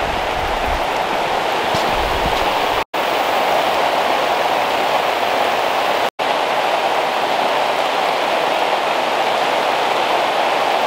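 Steady heavy rain falling on the plastic sheeting of a hoop house, with two brief silent gaps about three and six seconds in.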